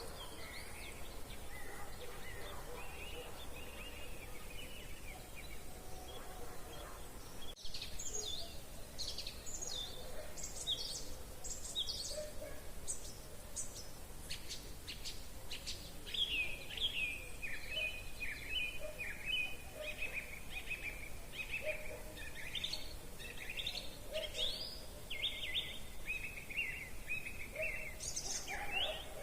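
Several songbirds singing with overlapping songs: quick runs of high notes from about a quarter of the way in, then a long string of short repeated phrases through the second half.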